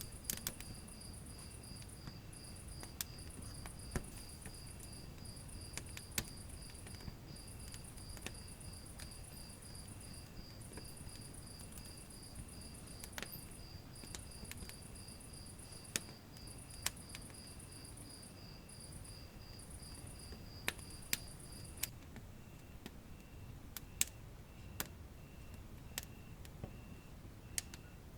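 Wood fire in a fireplace crackling, with scattered sharp pops over a low, even rumble of flame. Behind it, insects chirp in fast, even pulses; the highest trills stop about three-quarters of the way through while a slower chirp carries on.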